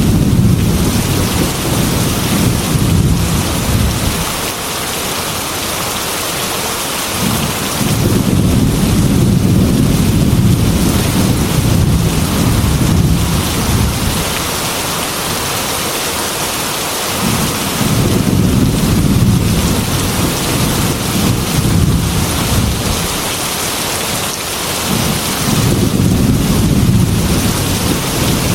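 Steady heavy rain with thunder rolling through it in long, low rumbles, four times, each lasting several seconds.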